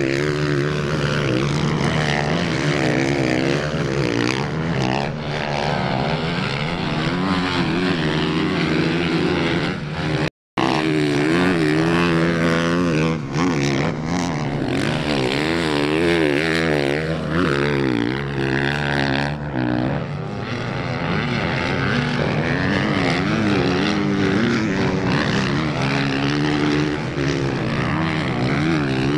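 Several off-road racing motorcycle engines revving up and down, their pitches rising and falling and overlapping. The sound cuts out completely for a moment about ten seconds in.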